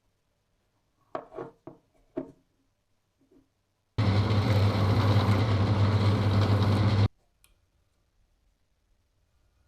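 A few light knocks, then a workshop power tool running loudly and steadily for about three seconds with a strong low hum, switched on and cut off abruptly.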